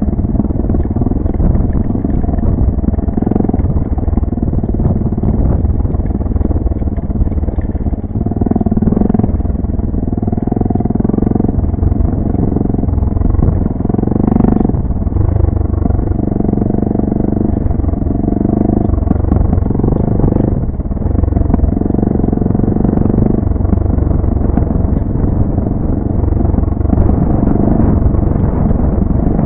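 Single-cylinder four-stroke engine of a Suzuki dual-sport motorcycle running while riding a dirt trail, its note rising and falling in repeated surges of a second or two as the throttle is rolled on and off.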